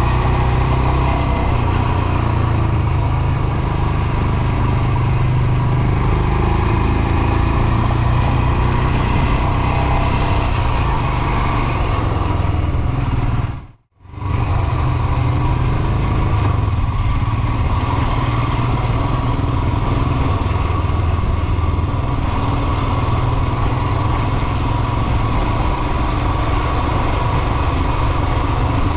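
Royal Enfield Himalayan's 411 cc single-cylinder engine running steadily while the motorcycle is ridden. About halfway through, the sound fades out for a moment and comes back.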